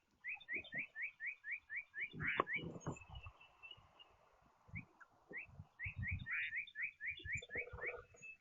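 A songbird singing two runs of quick, rising whistled notes, about four a second, with low knocks and thumps underneath.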